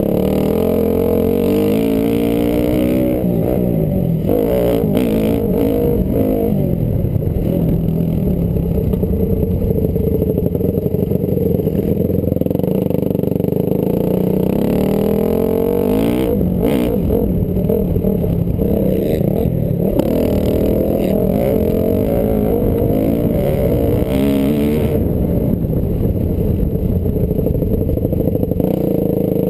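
Honda CRF250R four-stroke single-cylinder motocross engine being ridden hard, its pitch rising and falling over and over as the throttle opens and closes through the gears. Short clattering knocks come through here and there.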